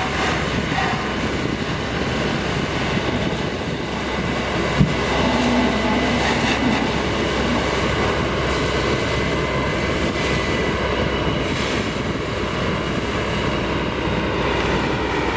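Steady loud noise of heavy machinery running, with faint steady whining tones in it and a single short knock about five seconds in.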